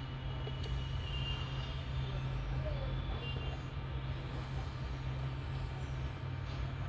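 Steady low machine hum from a running motor or engine, with a few faint short high-pitched tones in the first half.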